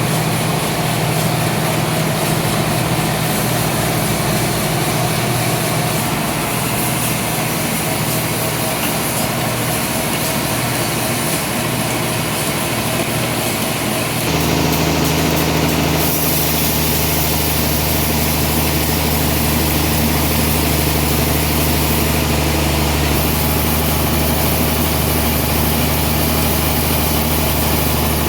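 Sawmill machinery running steadily, a loud engine-like hum with an abrupt change in tone about halfway through.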